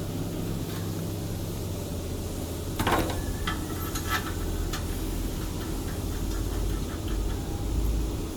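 Steady low machinery hum, with a few sharp clicks and knocks about three to five seconds in and lighter ticking after them: metal parts and fittings being handled during machine installation.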